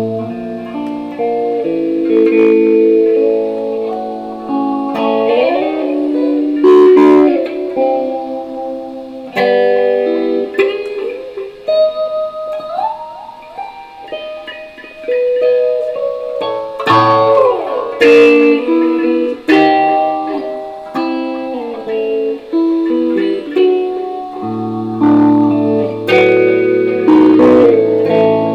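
Electric guitar played solo, with ringing chords struck every few seconds and single notes between them, a few of which slide up in pitch. The guitar is picked up through a microphone rather than plugged in directly.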